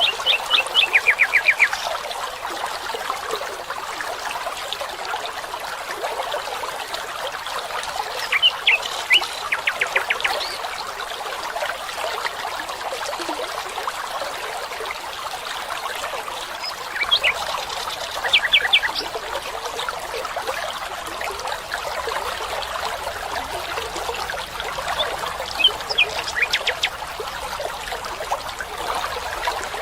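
Water trickling steadily in a stream, with a bird calling four times: each call a quick rattle of sharp notes lasting a second or two, coming about every eight seconds.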